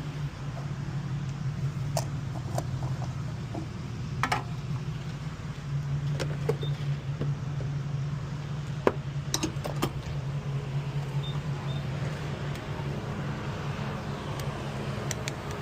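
Honda car driving, heard from inside the cabin: a steady low engine and road hum with scattered small clicks and rattles.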